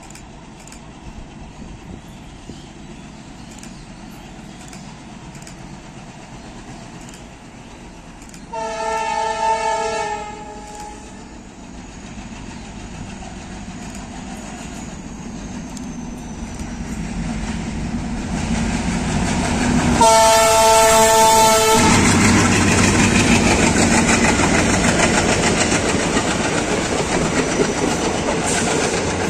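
Twin WDM-3D diesel locomotives sound their horn twice, each blast a chord of several notes lasting under two seconds; the second, about ten seconds later, is louder and closer. The growing rumble of the locomotives then gives way to the steady clatter of coaches passing at speed as the express runs through the station without stopping.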